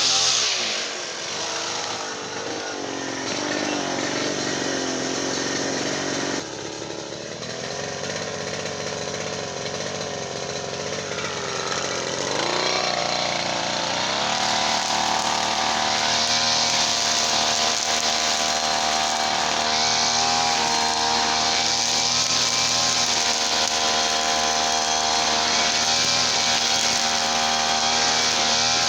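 Small petrol brush cutter engine running. It drops from high speed to a lower, unsteady, wavering speed, then revs back up about halfway through and holds a steady high-speed run.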